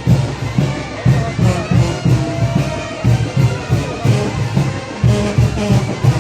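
Mexican wind band (banda de viento) playing a chinelo dance tune: trumpets and trombones carry the melody over a bass drum beating about twice a second.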